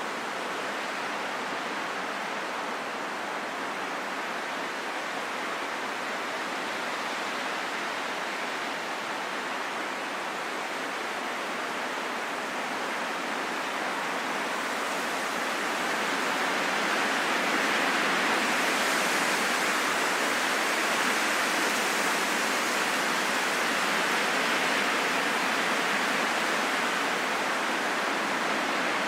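Steady wind noise with no distinct tones, swelling a little louder and brighter about halfway through.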